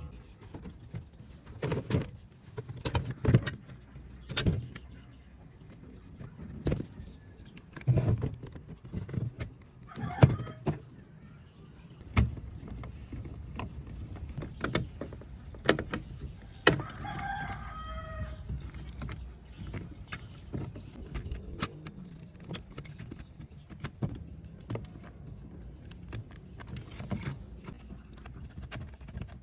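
Irregular clicks, taps and knocks of hands handling and working on a piece of hardware. A short pitched call sounds in the background once, about seventeen seconds in.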